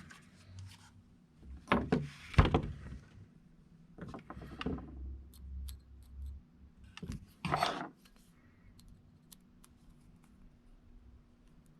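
Small tools and drone parts handled at a workbench: a few short bursts of clattering and scraping, then scattered light clicks.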